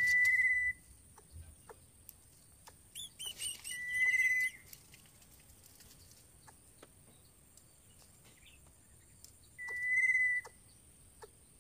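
Birds calling: three separate long, high, steady whistled notes, with a short run of quick chirps just before the second one.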